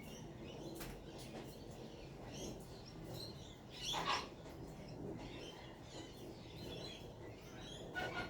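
Wild birds chirping and calling, many short calls overlapping, with one louder call about four seconds in and another near the end.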